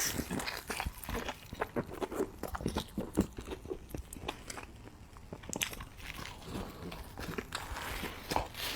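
Close-miked chewing of a mouthful of French onion burger, with many small irregular crunches and clicks.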